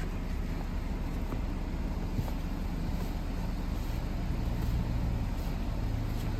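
A car engine idling with a steady low rumble, warming up in the cold.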